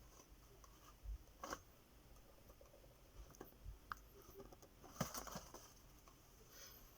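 Faint scattered clicks and small crunches from a pet rat eating watermelon, the sharpest about five seconds in.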